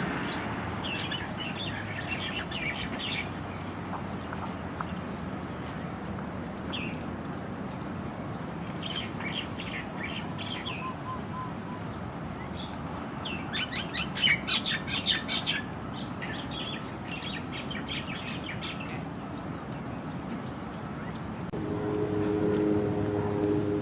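Small birds chirping in several bursts of quick calls over a steady hiss. The busiest, loudest burst comes a little past the middle, and music with held notes comes in near the end.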